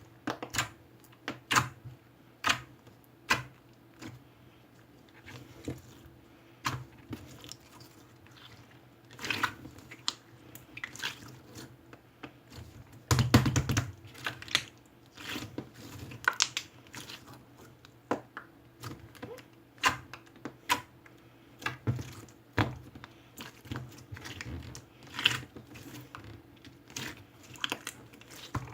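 Irregular small clicks and taps of objects being handled, with a longer cluster of knocks and rustling about thirteen seconds in.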